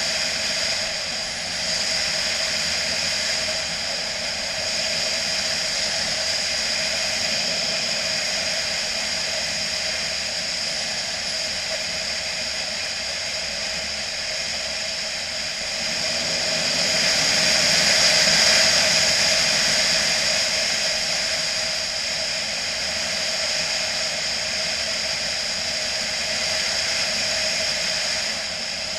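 BMW motorcycle on the move: steady engine and wind noise, swelling louder for a few seconds about two-thirds of the way through.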